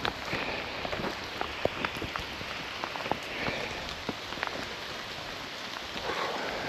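Heavy rain falling steadily, with many single drops ticking sharply close by.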